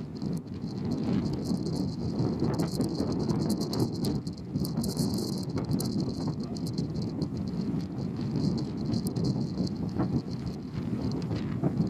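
Ferry under way: a steady low rumble with irregular crackling rattles on top.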